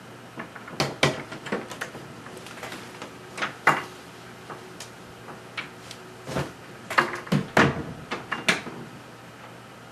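Scattered sharp clicks and knocks at irregular intervals, bunched around one second in, three and a half seconds in, and again between seven and eight and a half seconds, over a faint steady hum.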